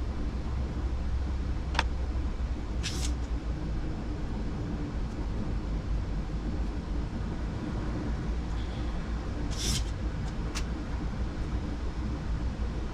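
Steady low rumble of a Boeing 737 flight deck on final approach with the landing gear down, broken by a few brief clicks and short hisses.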